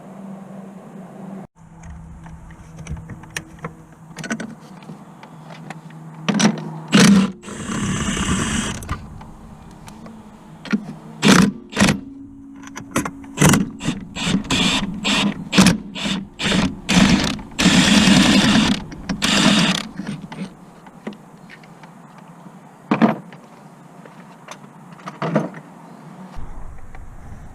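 Mechanic's tools working on the car during a clutch and gearbox job: a run of sharp metal clicks and clanks, typical of a ratchet and tools against the car, with two hissing bursts about a second and two seconds long in the middle.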